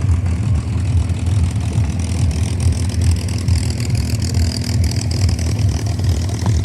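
P-51D Mustang's Rolls-Royce Merlin V-12 engine running at low power with a loud, uneven rumble and irregular pops. The popping is normal for a Merlin at idle, a sign of a healthy engine rather than a fault.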